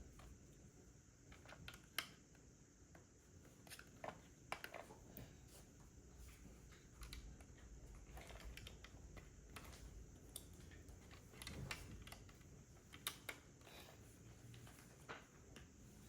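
Faint, irregular clicks and taps of plastic Lego bricks being handled and pressed together, a few sharper snaps standing out.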